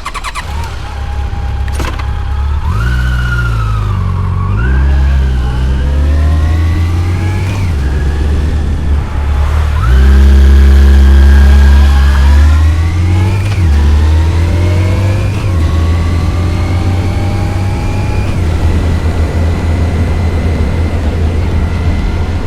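Yamaha FJR1300's inline-four engine accelerating through the gears: the pitch climbs and drops back at each upshift several times, with the hardest pull about ten seconds in, then settles to a steady cruise. A steady rush of wind and road noise lies under it.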